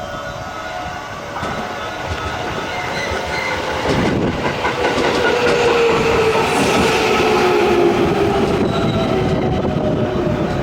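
JR West electric commuter train entering the station, growing sharply louder about four seconds in, with the rumble of the wheels on the rails and a whine that falls slowly in pitch as it comes in.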